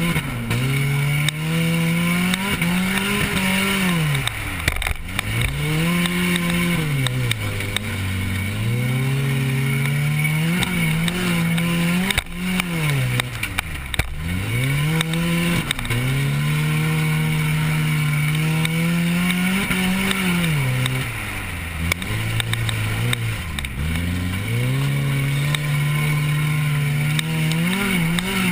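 Compact race car's engine heard from inside the car, revving hard and easing off over and over. The pitch climbs and holds high, then drops sharply and climbs again, about a dozen times.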